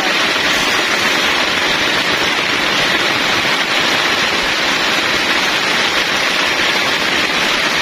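Heavy rain pouring down on a leaking camp shelter in strong wind, a loud, steady hiss.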